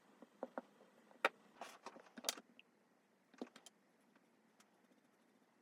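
Scattered light clicks and taps of small repair tools against the parts of an opened smartphone, a dozen or so over the first three and a half seconds.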